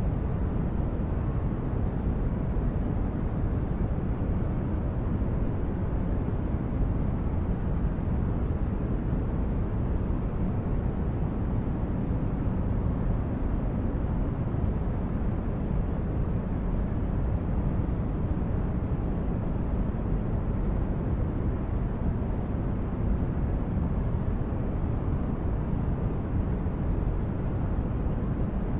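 Synthesized starship-corridor ambience: a steady, deep brown-noise drone, heaviest in the bass and thin in the treble, that does not change.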